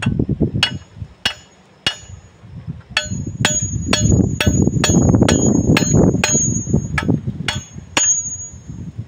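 Hammer striking metal again and again with a ringing clang, a few slower blows and then a faster run of about two blows a second, over a low rumble.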